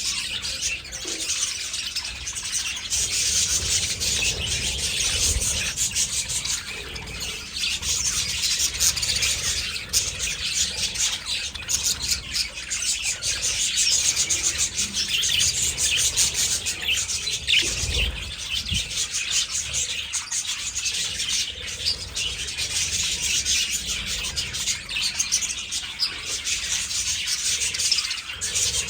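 A flock of budgerigars chattering continuously, a dense mass of high chirps and warbles.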